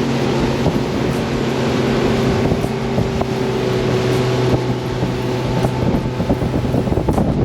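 Motorboat engine running at a steady pitch while the boat is underway, with wind buffeting the microphone and water rushing past the hull.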